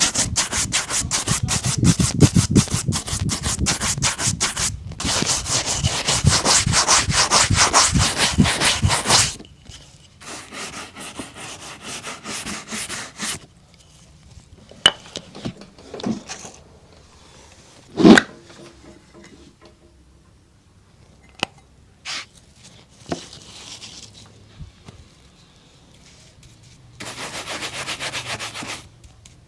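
Rapid back-and-forth rubbing strokes on a leather shoe for about nine seconds. The rubbing stops, giving way to quieter handling with a few sharp knocks, the loudest about halfway through. A short burst of rubbing comes near the end.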